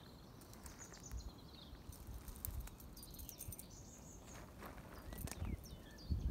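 Small birds singing in short high chirps, with a few faint sharp clicks and rustles in the middle.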